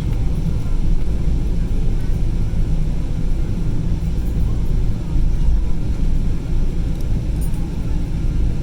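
Cabin noise of a Boeing 777-200ER taxiing: the engines running at taxi power as a steady low rumble, with a few faint ticks near the end.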